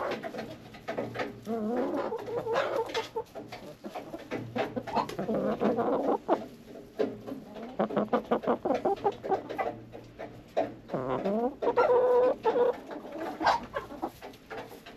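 A flock of chickens clucking and calling in the coop: a run of short, bending calls, with a longer, louder call a little after eleven seconds.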